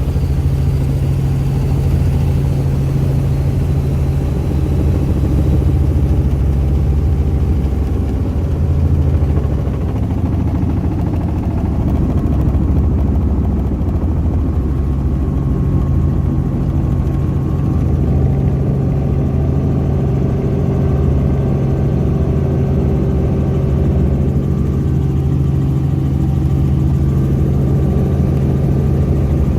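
Helicopter engine and rotor noise heard from inside the cabin: a loud, steady low drone with a strong hum.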